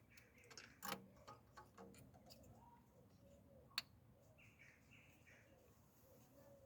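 Near silence, broken by two faint clicks: one about a second in and a sharper one a little before four seconds.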